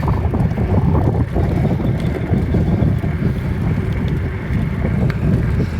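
Wind buffeting the microphone of a phone carried on a moving bicycle: a steady, low rushing noise.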